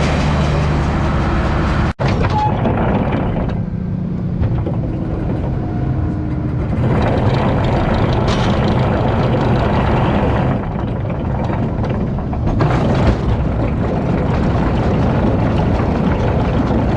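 International 1066 tractor running steadily, pulling a New Holland 853 round baler. The sound cuts out for an instant about two seconds in and shifts several times after that.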